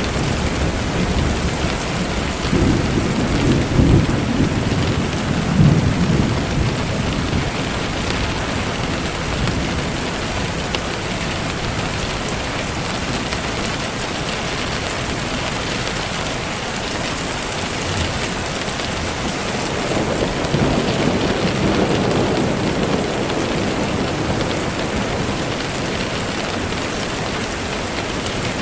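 Steady rain falling, with two low rolls of thunder: one a few seconds in and another about twenty seconds in.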